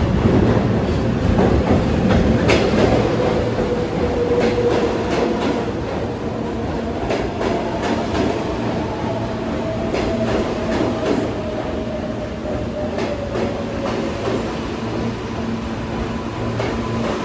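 New York City subway train running through the station, its wheels clicking over the rail joints under a steady rumble, with a faint motor whine that shifts slowly in pitch.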